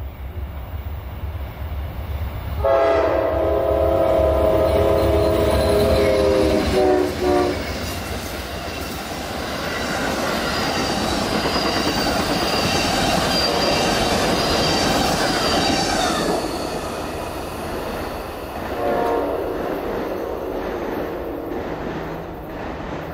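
Amtrak Silver Meteor passenger train sounding its chord horn for a road crossing: one long blast from about three seconds in until about seven seconds, then the passenger cars rolling past with steady wheel-on-rail noise, and a short second horn blast about four seconds before the end.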